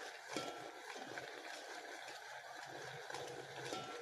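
Noodles simmering in a pan: a steady, low bubbling hiss with a few faint clicks.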